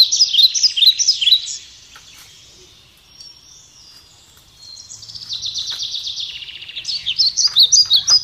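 Birds chirping: quick strings of high, sharp chirps at the start, a short lull, then a fast high trill from about five seconds in that breaks back into loud chirps near the end.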